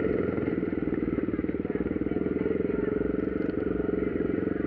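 Motocross dirt bike engine running steadily, with a fast, even firing pulse.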